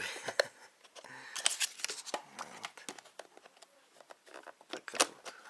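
Hands handling a new robot vacuum cleaner and its packaging: scattered plastic clicks and short rustles, with one sharp click about five seconds in.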